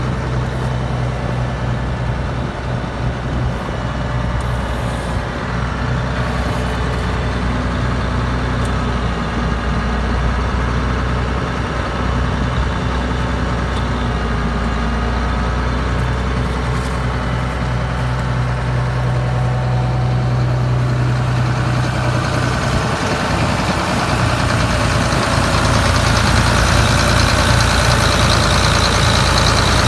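Allis-Chalmers 7040 tractor's diesel engine running steadily, growing louder and brighter about three-quarters of the way through.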